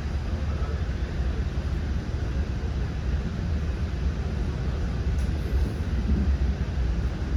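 Commuter train running between stations, heard inside a passenger car: a steady deep rumble with an even wash of rolling noise.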